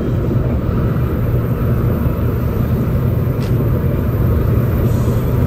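Cabin noise of a 700-series Shinkansen train running at speed: a steady low rumble of wheels on the track, heard inside the passenger car.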